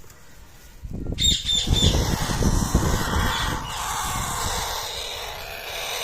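Parrot squawking: a quick run of about four short, high calls about a second in, then more calling over low rumbling noise.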